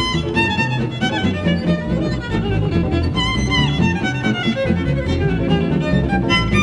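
Live jazz violin playing a melodic line with sliding notes, over guitar accompaniment and a walking bass line.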